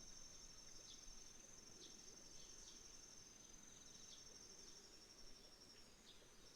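Faint autumn insects, crickets among them, trilling steadily in a high pulsing band, with a few short high chirps from birds scattered through.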